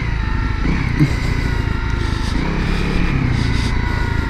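2017 Honda CRF250L's single-cylinder four-stroke engine running steadily.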